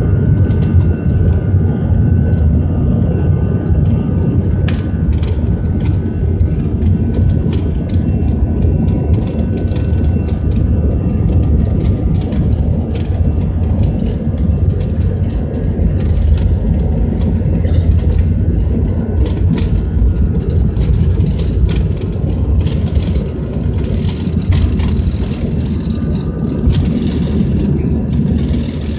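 Inside an airliner's cabin during take-off: a loud, steady low roar of the jet engines and airframe, with many small rattles and clicks from the cabin fittings. A higher hiss builds in the last few seconds.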